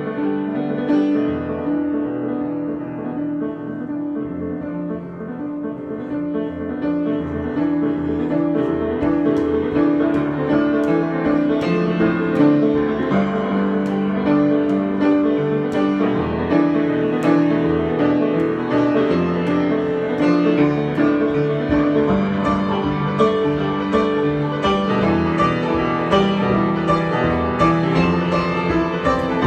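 Solo piano improvisation, sustained chords and melody that start softer and grow fuller and brighter, with more frequent notes, from about seven seconds in.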